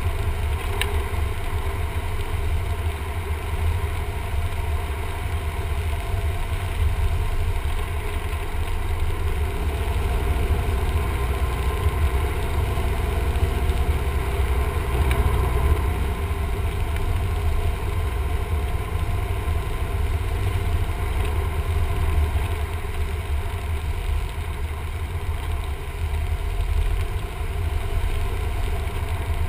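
Cessna 172M's four-cylinder Lycoming engine and propeller running steadily, a constant low drone with no change in power.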